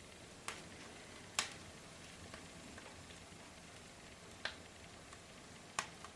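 Wood fire burning quietly in a fireplace's cast-iron firebox: a faint steady hiss with a few sharp crackles and pops, about four spread across the few seconds.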